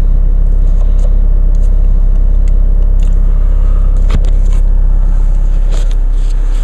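2014 Chevy Cruze 2.0 TD's four-cylinder turbodiesel idling steadily, heard from inside the cabin, with a single sharp click about four seconds in.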